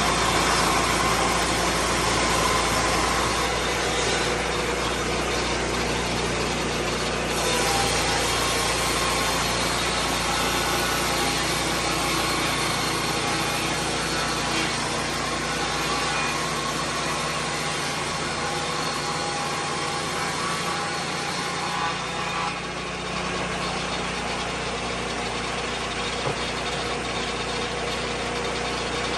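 Lucas Mill 10-30 swing blade sawmill's gasoline engine running steadily at speed, with dense noise from the spinning blade.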